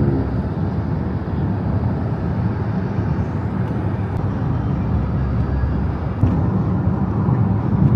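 Steady low rumble of vehicles and traffic, a little louder from about six seconds in.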